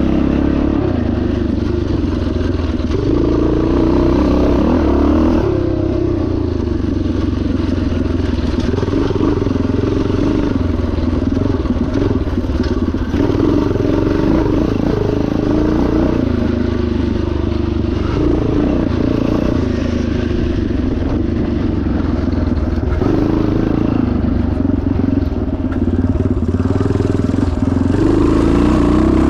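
1977 Yamaha TT500's 500 cc single-cylinder four-stroke engine running hard off-road. The pitch rises and falls as the throttle is worked.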